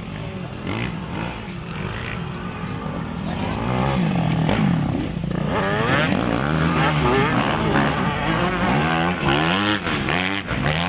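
Motocross dirt bikes racing, their engines revving up and dropping back again and again, with several rising and falling engine notes overlapping. Louder from about four seconds in.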